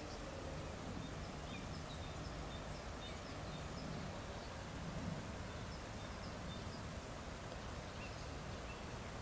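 Outdoor ambience: a steady low background rumble, with short, faint, high bird chirps scattered throughout.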